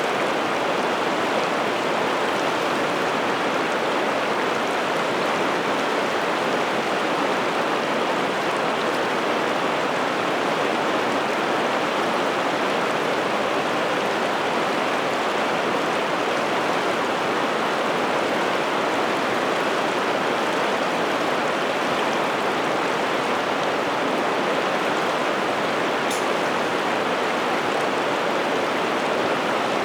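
River water flowing steadily, an even rushing noise that neither rises nor falls.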